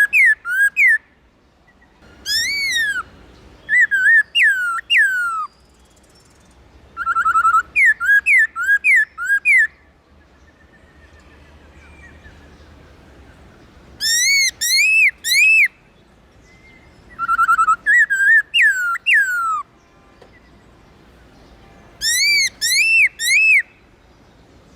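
Black-throated laughingthrush singing: loud bouts of clear whistled notes, each note swooping up and down, about seven bouts with short pauses between them.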